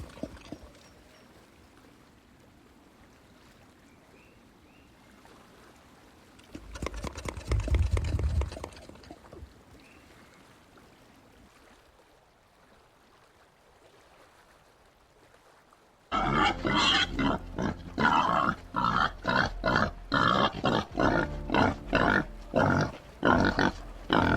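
White-lipped peccary calling. There is a short burst about a third of the way in, then from about two-thirds through a rapid run of loud, repeated grunting calls, two to three a second.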